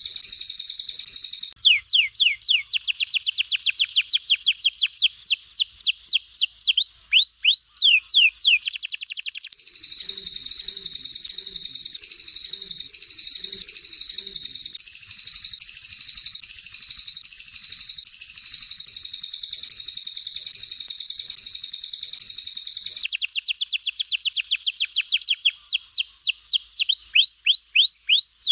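Caged songbirds singing fast 'tembakan' phrases, canary and cililin, alternating between a dense, very high rolling trill and rapid runs of downward-sweeping whistled notes. There are two trill passages, one in the long middle stretch, and two sweep runs, at about the second second and from about the twenty-third second.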